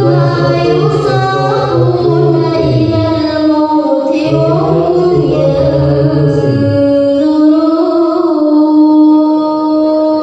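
A woman's voice singing a slow, ornamented melody with long held notes that bend and slide between pitches. A low steady hum sounds underneath for the first seven seconds or so, broken briefly around four seconds in.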